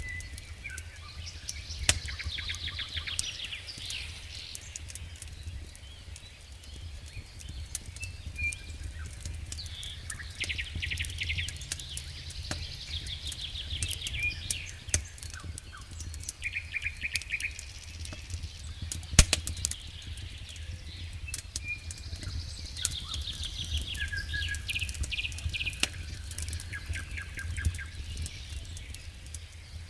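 Wood fire crackling with scattered sharp pops and one loud snap a little past halfway, over a low steady rumble. A songbird sings a trilled phrase about every ten seconds.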